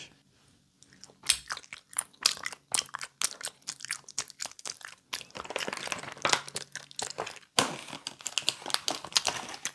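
Close-up mouth sounds of chewing a gummy candy: a dense run of small wet clicks and squishes. Near the end, the crinkle of a plastic candy bag being handled.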